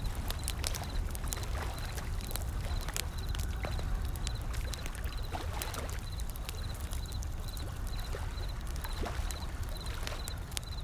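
Wood fire crackling with scattered sharp pops over a steady low wash of ocean waves. A faint, regular high chirp repeats about twice a second.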